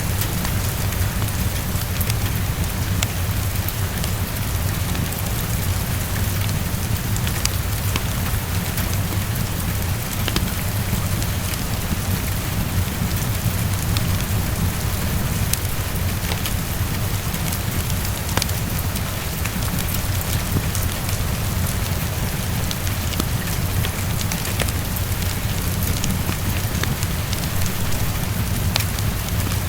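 Steady heavy rain with a constant low rumble underneath and scattered sharp ticks throughout.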